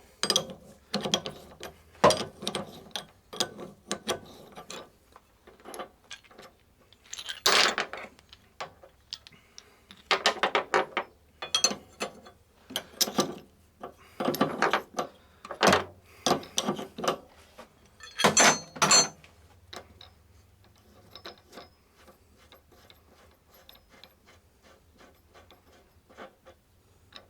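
Metal clicking and ratcheting of hand tools as a strut-nut puller is unscrewed from a car's strut rod, in short runs of clicks with pauses, growing sparser and fainter near the end.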